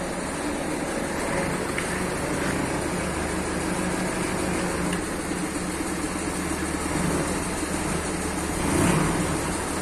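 Forklift engine running steadily, getting a little louder for a moment about nine seconds in.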